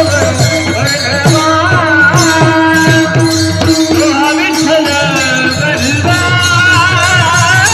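Marathi kirtan devotional music: a male voice sings a melismatic abhang line over a steady held drone note, with regular mridang drum strokes and jingling percussion.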